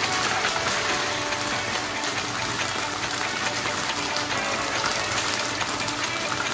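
Chicken breast slices sizzling as they fry in a pan, a steady hiss.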